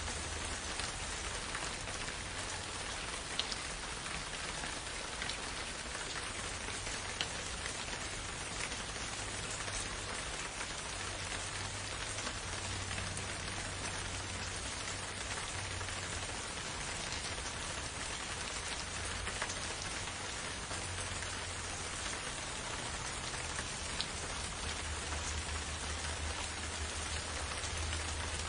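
Steady rain: an even hiss with scattered sharper drop ticks, over a low rumble that swells and fades.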